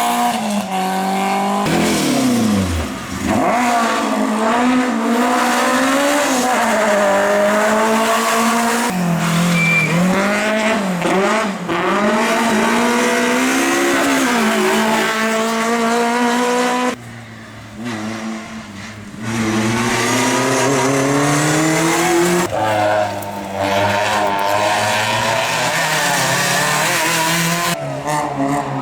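Hillclimb competition car engines revving hard, the pitch repeatedly climbing and dropping sharply through gear changes and braking. A quieter stretch comes about two thirds of the way in.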